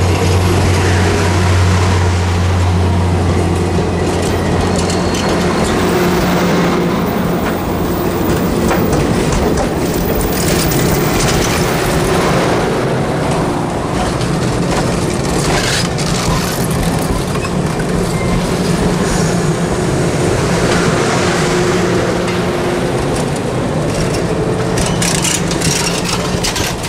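Passenger train cars rolling past close by: a steady rumble of steel wheels on the rails with repeated clicks over the rail joints. A low hum fades out in the first few seconds.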